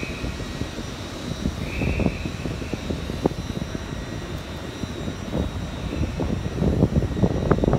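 Passenger train at a station: a steady low engine drone with scattered sharp clicks and knocks, growing louder and busier in the last second or so.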